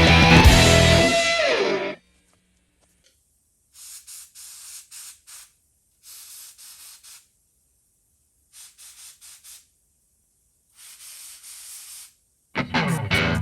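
Rock music with distorted electric guitar stops about two seconds in. An airbrush then hisses in four clusters of short sprays, each cluster a second or so of quick pulses with silence between. The guitar music comes back near the end.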